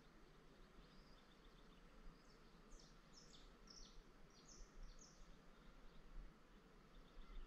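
Near silence, with faint bird calls in the middle: a quick series of high, falling notes, about four a second.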